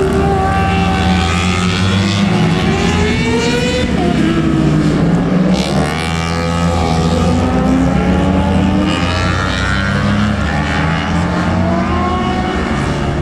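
Several superbike racing motorcycle engines running hard together, their pitch rising and falling as they accelerate and shift gears, with one dropping sharply in pitch about six seconds in.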